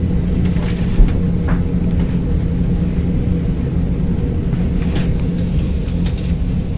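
Stockholm metro train running: a steady rumble with a constant low hum, and a single knock about a second in.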